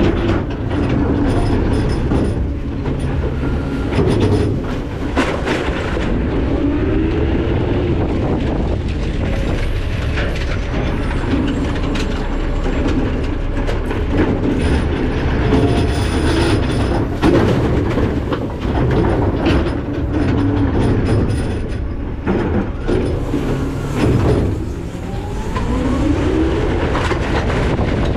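McNeilus ZR garbage truck running, heard at its hopper: a continuous rumble full of rattling and clanking, with the engine rising in pitch a few times, near the start and again near the end.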